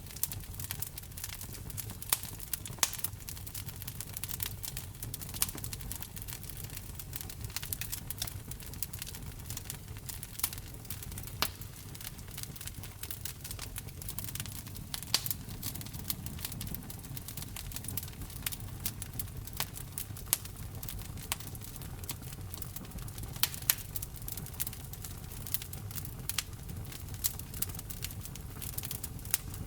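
Wood fire burning in a fireplace: a steady low rumble of the flames with constant crackling and frequent sharp pops of burning wood.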